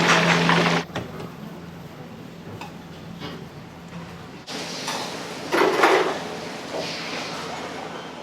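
Restaurant kitchen sounds: a steady mechanical noise with a low hum that cuts off abruptly about a second in. Then quieter room sound, with dishes and utensils clattering and clinking a few times near the end.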